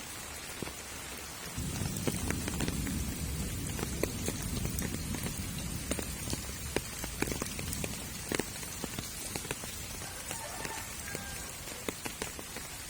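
Light rain and water dripping onto surfaces: a steady hiss with many scattered sharp drips. About a second and a half in, a low rumble rises and fades away over several seconds.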